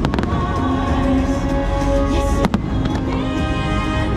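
Aerial fireworks bursting: a quick cluster of sharp bangs at the start and another crack about two and a half seconds in, over show music with long held notes.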